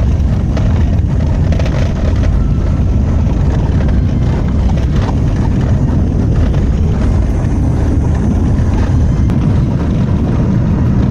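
Car driving on a rough country road, heard from inside the cabin: a steady low rumble of engine and road noise.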